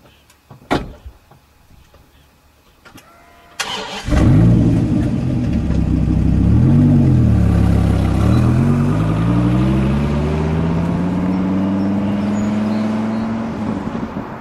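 Dodge Viper V10 engine cranking and catching about three and a half seconds in, after a couple of sharp clicks. It is blipped once, then pulls away with its pitch rising steadily as it accelerates.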